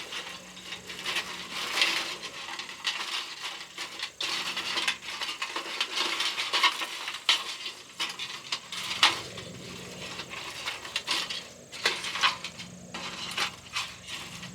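Irregular clinks, knocks and clatters of metal camp gear being handled, many sharp taps at uneven spacing.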